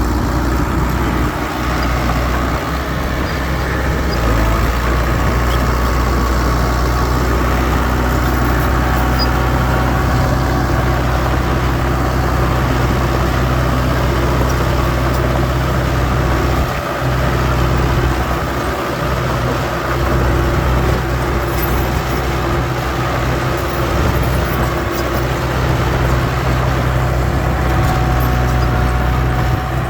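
Diesel engine of heavy earthmoving machinery running steadily at a low, even pitch.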